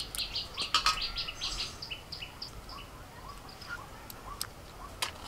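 Small birds chirping: a quick run of short high notes over the first two seconds, then scattered softer calls. A few sharp clicks near the end.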